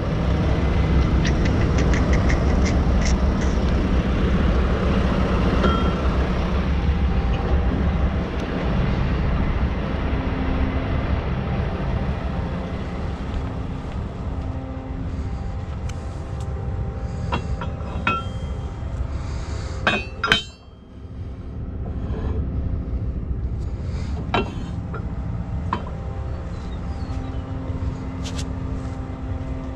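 Heavy diesel truck engine running steadily with a low rumble, with scattered metallic clinks and clanks; a louder ringing metal clank comes about twenty seconds in.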